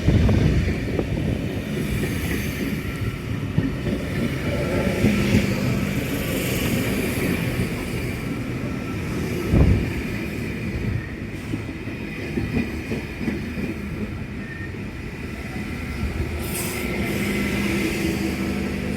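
Electric passenger train running along the track through the station, with continuous wheel-and-rail rumble, a sharp clunk about halfway through, and a brief high wheel squeal near the end.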